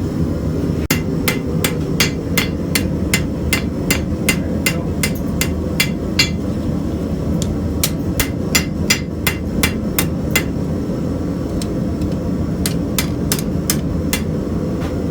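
Hand hammer striking hot steel on an anvil while a knife blade is forged, in a steady rhythm of about three blows a second, with a short pause before a last few blows near the end. A steady low rumble runs underneath.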